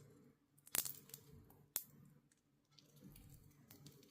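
Lovebirds cracking sunflower seeds in their beaks: a few faint, sharp clicks, the two loudest about a second apart within the first two seconds.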